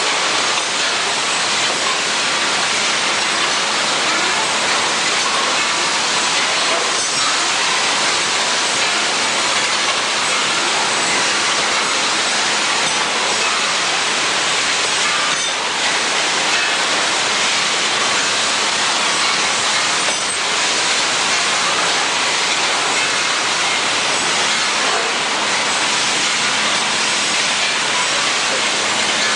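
60-grit abrasive belt polishing machine grinding the forging trim line off steel pliers: a steady, loud hiss of belt on metal with a faint motor hum underneath.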